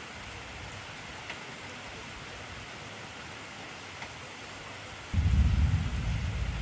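Steady heavy rain hiss. About five seconds in, a low rumble of thunder starts suddenly and keeps rolling, becoming the loudest sound.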